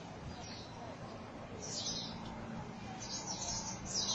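A flock of small birds chirping in a tree: clusters of short high chirps, busiest in the last second or so, over a low steady hum.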